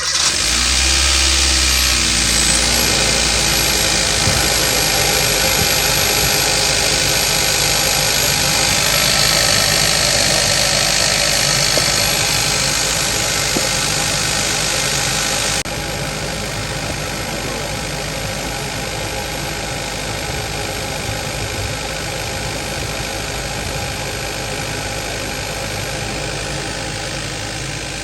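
2015 Kia Forte's 1.6 GDI four-cylinder engine running steadily just after being started, with its faulty cylinder 3 ignition coil newly replaced. A little over halfway through, the sound drops abruptly in level.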